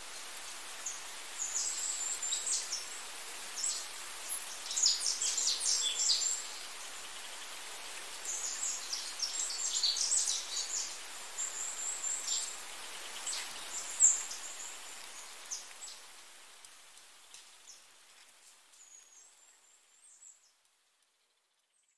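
Birds chirping in short high clusters over a steady rain-like hiss, gradually fading out over the last several seconds.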